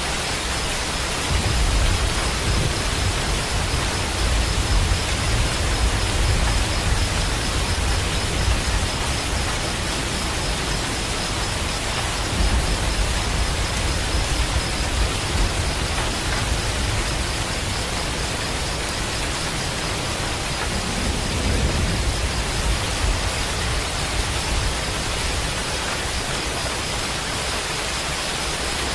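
Steady rain falling, an even hiss, with low rumbles of thunder in the first several seconds and again briefly past the middle.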